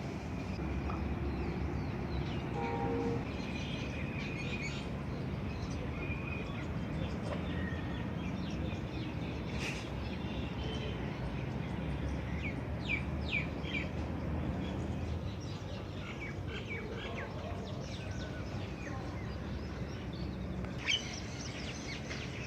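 Outdoor ambience of birds chirping and calling, short scattered chirps and a few held whistled notes, over a steady low background rumble, with a couple of sharp clicks.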